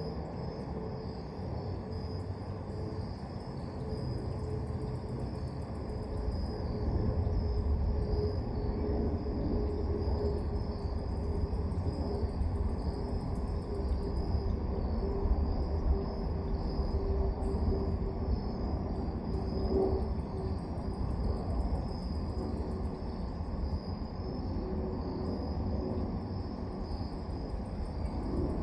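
Crickets chirping in a steady high trill, with a second, faster pulsing insect call coming and going in bursts above it. Underneath runs a low rumble that grows louder about six seconds in.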